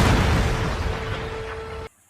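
Explosion-like sound effect: a loud, deep rumble fading away, with a faint steady tone under it, cut off suddenly just before the end.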